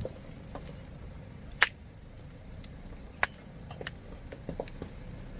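Campfire wood crackling: scattered irregular pops and snaps over a low steady rumble, with a sharp loud pop about a second and a half in and another about three seconds in.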